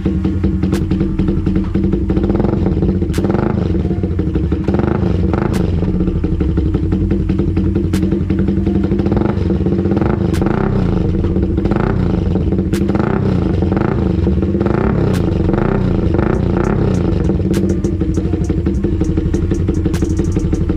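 Suzuki Raider 150 Fi's single-cylinder four-stroke engine running steadily through an open CHA exhaust pipe, very loud. Sharp ticks come about every two and a half seconds.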